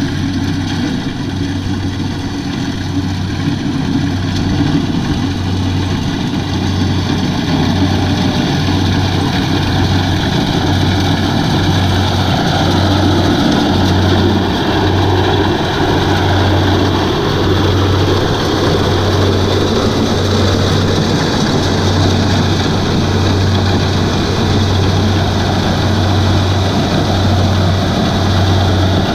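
Kubota DC-70 combine harvester's diesel engine and machinery running steadily, growing somewhat louder over the first several seconds and then holding.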